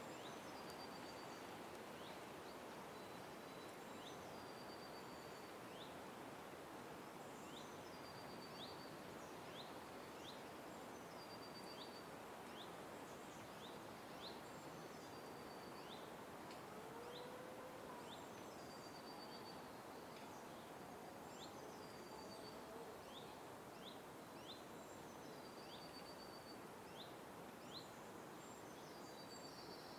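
Faint outdoor ambience of small birds calling: short high chirps, repeated about every second, over a steady background hiss.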